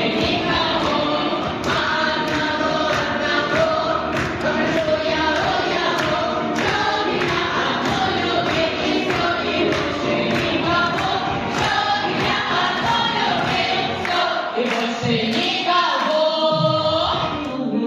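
Group of voices singing over a song backing track with a steady beat; near the end the texture thins and the backing changes.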